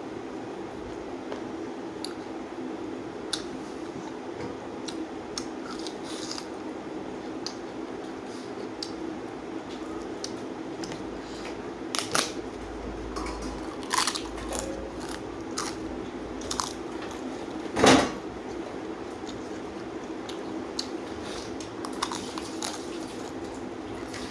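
Someone eating a meal: chewing and mouth sounds with scattered clicks and taps of dishes, the loudest about 18 seconds in, over a steady low hum.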